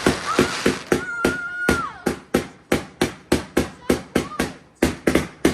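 A firework barrage firing a rapid string of bangs, about four to five a second, with a dense crackle over the first two seconds. A voice exclaims over the first shots.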